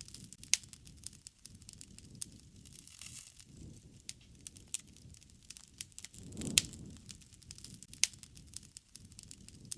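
Campfire crackling: irregular sharp pops and snaps of burning wood over a low rumble of flame, which swells briefly about six and a half seconds in.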